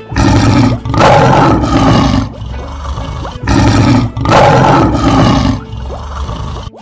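Lion roar sound effect, heard twice over: each time a short roar followed by a longer one.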